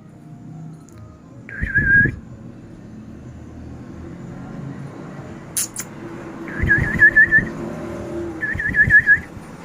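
Cockatiel whistling three short warbling phrases of quick up-and-down notes: one about a second and a half in, then two more close together near the end. A single sharp click comes between them.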